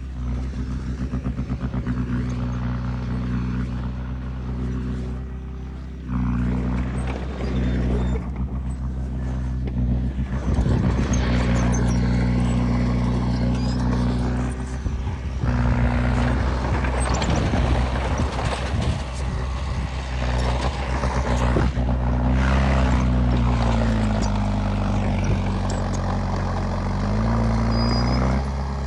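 Heavy diesel machinery engine running hard, with a rough, clattering stretch in the middle. Near the end the engine note sags and then climbs back, as it would under load.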